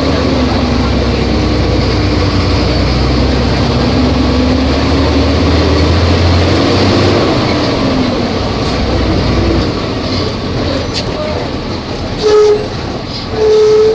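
Volvo B270F bus diesel engine running under load, its pitch gliding up and down. The deep drone drops away about ten seconds in as it comes off load. Near the end come two short, loud horn blasts.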